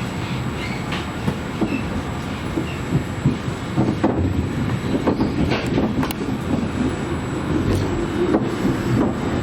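Regional passenger train running along the track: a steady rumble with irregular clicks and knocks from the wheels on the rails.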